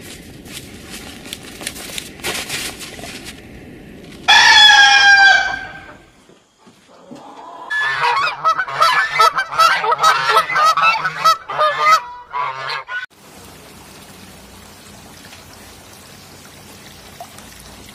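Geese honking: one loud, drawn-out honk about four seconds in, then a quick flurry of many short honks lasting about five seconds, followed by a steady low background hiss.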